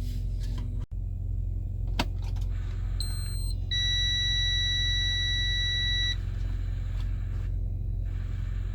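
Truck dashboard warning buzzer: a short high beep, then a steady beep about two and a half seconds long, sounding with the key on while the DD15-engined truck won't start. A single click comes about two seconds in, over a steady low rumble.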